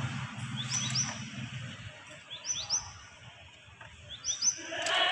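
A bird calling in pairs of short upward-sweeping chirps, repeated about every two seconds, over a few light metal clicks from a spanner on the battery terminal. A low hum stops about two seconds in, and a louder sound comes just before the end.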